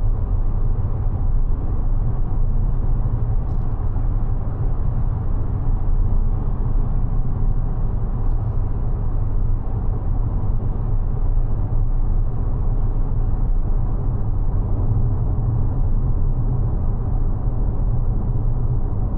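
Mazda 6e electric car driving: a steady low tyre and road rumble with no engine note, and two faint clicks in the first half.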